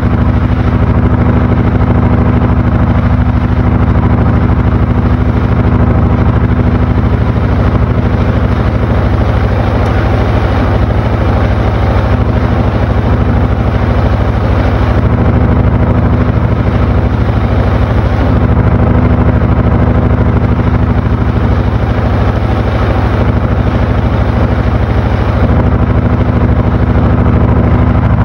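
Panasonic NA-FA80H8 top-loading washing machine running late in its cycle: a loud, steady motor hum with a noisy whir over it, shifting slightly a few times.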